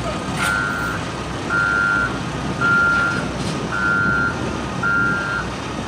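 A vehicle's reversing alarm beeping in an even rhythm, five beeps about a second apart, over a steady engine rumble.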